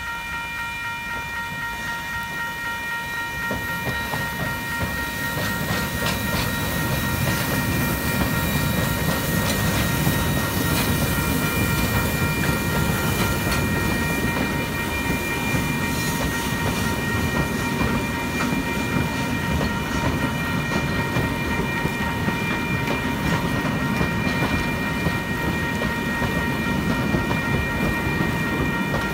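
A level crossing's electronic bell ringing steadily over the rumble and wheel clatter of heritage passenger carriages rolling across the crossing. The rumble builds over the first few seconds and then holds.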